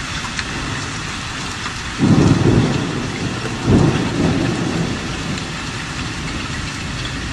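Steady heavy rain, with thunder rumbling twice: about two seconds in and again near four seconds.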